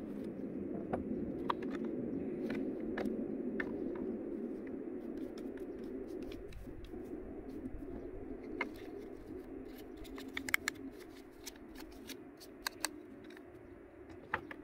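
Wood fire crackling, with scattered sharp pops and snaps over a steady low noise that slowly fades; a cluster of louder pops comes about ten seconds in.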